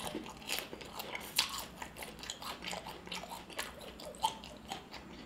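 Close-up mouth sounds of a person chewing crunchy food: an irregular run of crisp crunches, several a second.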